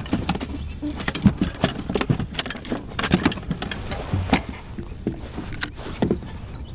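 Irregular taps, knocks and rattles, many sharp ones in quick succession, from handling a freshly landed redfish and gear on a kayak.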